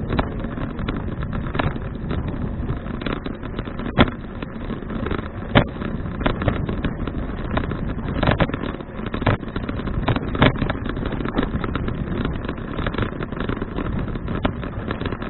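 Riding noise picked up by an action camera on a moving bicycle: steady wind and road rumble, with four louder sharp knocks spread through.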